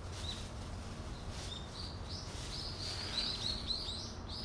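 Small birds chirping: many short, high, falling chirps, a few at first and then a quick run of them from about a second and a half in, over a steady low outdoor rumble.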